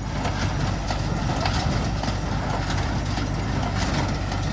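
A tractor engine running steadily under load while pulling a New Holland 276 Hayliner square baler that is picking up a windrow, with the baler's mechanism clacking and knocking repeatedly as it packs hay into bales.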